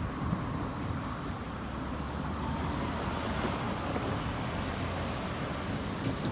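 A vehicle's steady low rumble, with a few faint clicks near the end.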